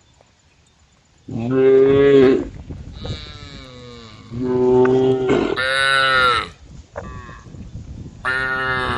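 Cows mooing: several long, drawn-out calls that start about a second in, the loudest two close together and partly overlapping, with a shorter moo near the end.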